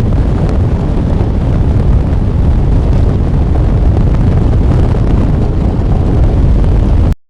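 Loud, steady wind rushing and buffeting the microphone on a DN iceboat sailing over the ice. It cuts off abruptly near the end.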